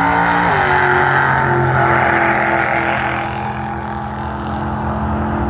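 Drag-racing truck engine running hard down the strip, its pitch stepping down about half a second in and then holding steady, a little fainter in the second half.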